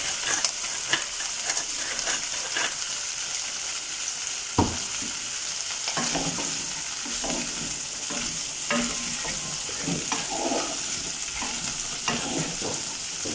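Chickpeas sizzling in hot oil in a pot, with a steady hiss, while a wooden spoon stirs them, giving scattered scrapes and knocks against the pot; the sharpest knock comes about four and a half seconds in.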